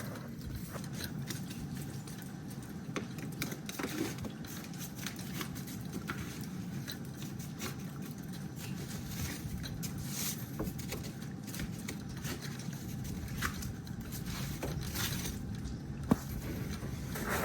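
Ice scraper scraping and chipping sleet and ice off a car in repeated short strokes, over a steady low background; one sharp click near the end.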